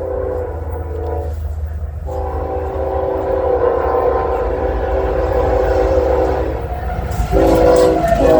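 Freight locomotive's multi-chime air horn sounding the grade-crossing pattern: a long blast ending about a second in, another long blast, a short one, then a final blast starting near the end whose pitch drops as the locomotive passes. A low rumble of the locomotive and train runs underneath.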